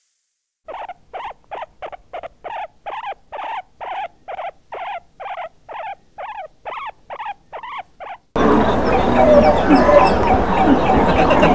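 Piglets squealing in a quick run of short, sharp calls, about two or three a second. About eight seconds in, this gives way abruptly to a loud din of many gulls calling at once.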